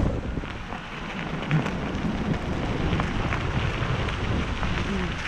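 Bicycle ride noise: tyres rolling over a rough path and wind on the microphone, a steady rushing crackle with a few knocks.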